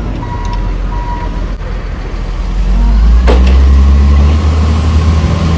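Truck engine running, growing louder a little past the halfway point, with short reversing beeps in the first second and a sharp knock about three seconds in.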